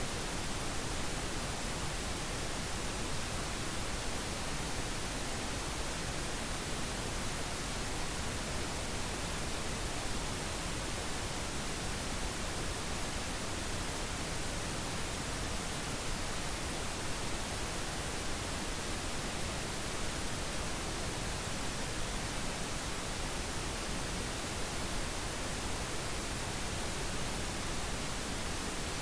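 Steady pink noise: an even, unbroken hiss that spreads across all pitches.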